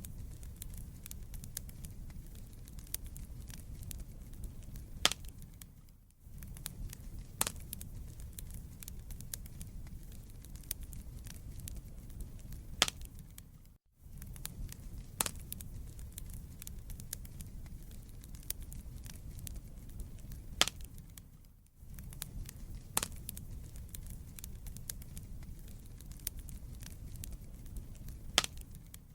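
Wood fire burning in a fireplace: irregular crackling and sharp pops of burning logs over a low rumble of flames. The sound drops out briefly about every eight seconds, and the same pattern of pops repeats each time, as a short loop.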